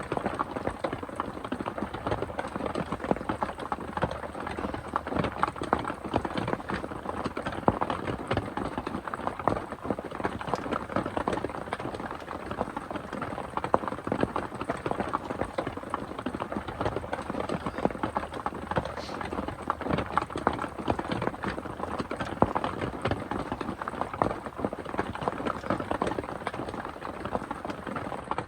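Heavy rain pattering on a surface: a dense, steady patter of close drops that does not let up.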